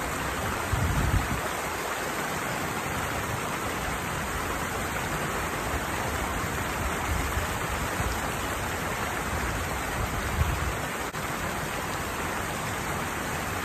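Water rushing steadily over a small cascade, a constant even hiss, with brief low bumps about a second in and again near ten seconds.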